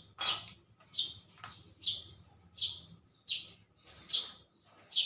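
A small bird chirping repeatedly: short, high chirps about once every three-quarters of a second.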